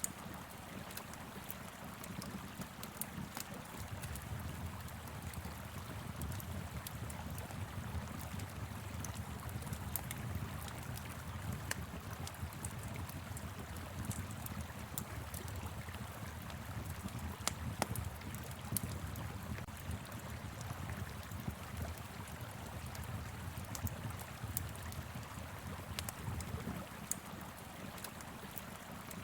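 Steady rush of a flowing river with a wood fire crackling over it: irregular sharp pops scattered over the water's even low noise, a few louder pops about halfway through.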